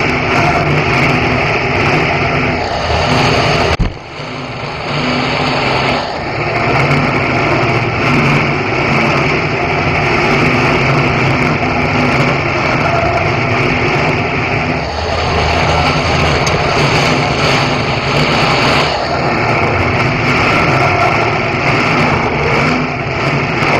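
Stock car engine running loudly and steadily, heard from inside the cockpit, with a sudden brief drop in level about four seconds in.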